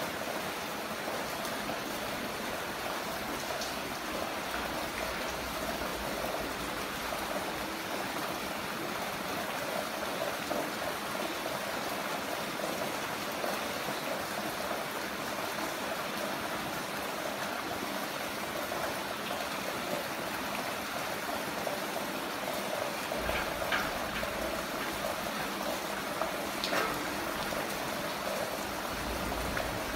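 Heavy rain falling steadily, a dense even hiss of rain and running water, with a few sharper drip-like taps late on.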